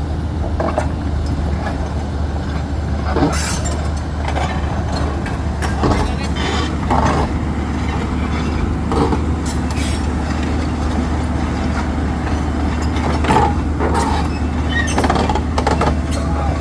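Heavy diesel machinery running steadily, a low drone under scattered short metallic clanks and knocks, with voices in the background.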